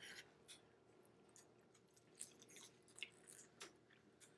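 Faint chewing of pizza: a scattered handful of small, soft mouth clicks over near silence.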